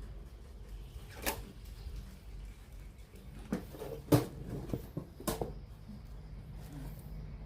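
A handful of sharp knocks and clicks, about five, the loudest a little after four seconds in, over a steady low hum.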